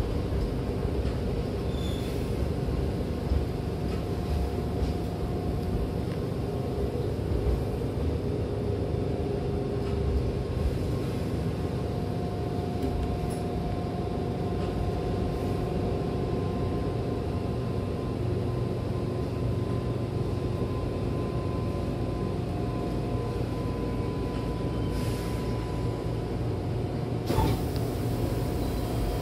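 Hankyu train cabin: the train rumbles steadily as it runs slowly into the terminal, with a faint steady whine through the middle. A couple of seconds before the end a sudden hiss comes as the sliding doors open.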